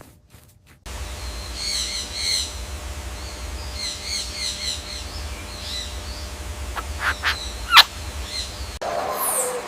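Bird chirping in short repeated phrases of quick high notes over a low steady rumble, with a few sharper, louder calls near the end.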